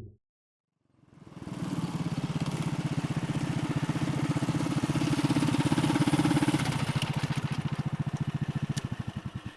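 Single-cylinder Tillotson 212cc engine on a Rascal mini bike running with an even, rapid firing pulse, then slowing over the last few seconds as the pulses spread out and the sound fades.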